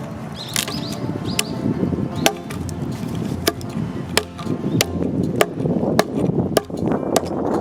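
Wood being chopped, a log struck with an axe in quick regular blows about every 0.6 seconds.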